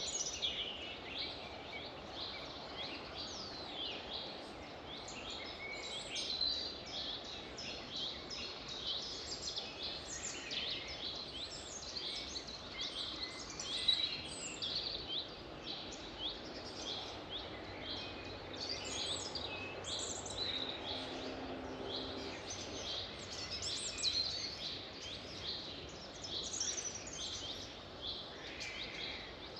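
A chorus of many birds singing, a dense run of quick high chirps and whistles overlapping, over a steady low background hiss.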